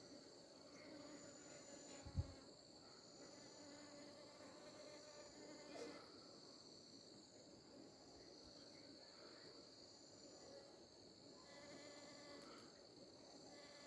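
Faint, steady high-pitched chorus of insects, cricket-like, with a brief low thump about two seconds in.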